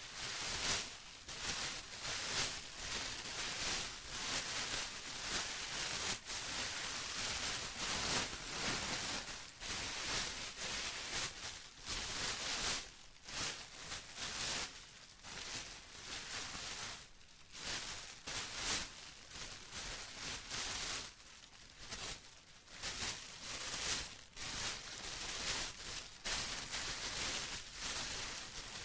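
Plastic being crinkled and rustled by hand, a continuous crackling with uneven swells and brief lulls.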